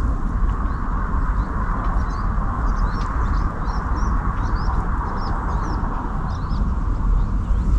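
Small songbirds chirping and singing at dawn, many short high calls throughout, over a steady low rumble and a steady hiss in the middle range.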